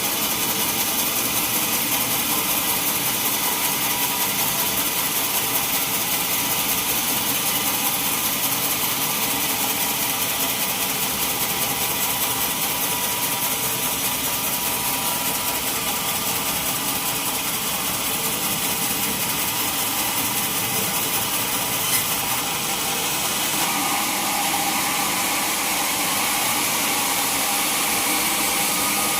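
Sawmill saw running steadily through a mahogany log, a loud continuous machine noise with a high whine. A single sharp click about three-quarters of the way through.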